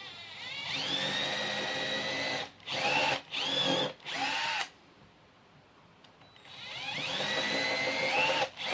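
Power drill spinning up with a rising whine and running steadily, then a few short trigger bursts in which the pitch dips, stopping about four and a half seconds in; after a pause a second run spins up again near the end. The drill is boring the two mounting holes for an RC truck's wheelie bar.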